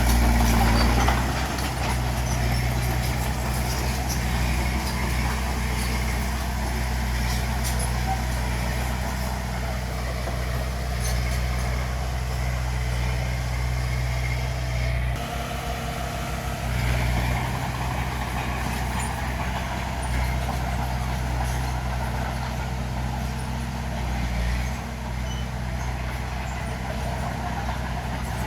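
Bulldozer's diesel engine running steadily, with faint scattered clicks; the engine note dips and shifts briefly about halfway through.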